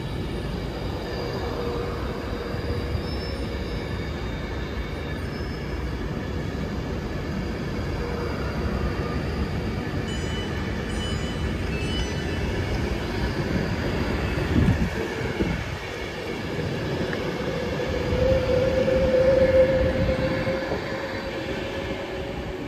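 Avanti West Coast Class 390 Pendolino electric trains running through the station: a steady rumble of wheels on rail. A tone rises and becomes loudest a few seconds before the end as a second Pendolino approaches.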